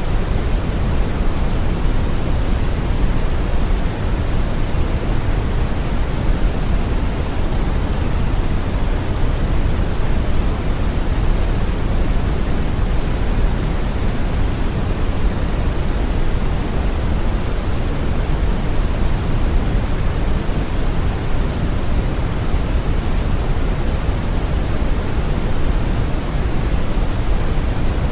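Steady brown noise: an even, deep rushing hiss, heaviest in the low end, with no change or events.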